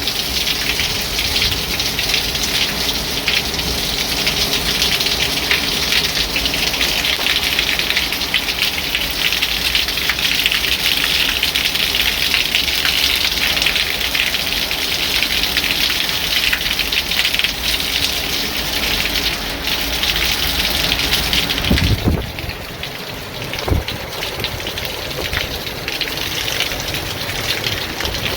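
Torrential hurricane rain pouring down steadily in a dense hiss. About 22 seconds in the hiss drops suddenly and carries on weaker.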